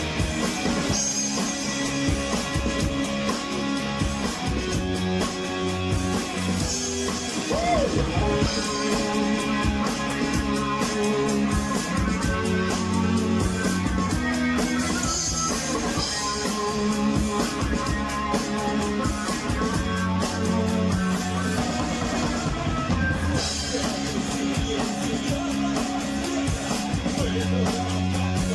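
Rock music played on guitars with a drum kit, at a steady beat.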